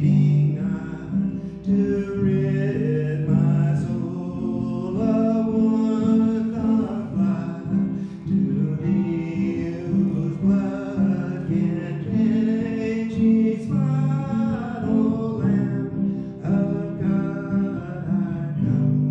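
Singing with acoustic guitar accompaniment, the sung melody moving over steady low notes.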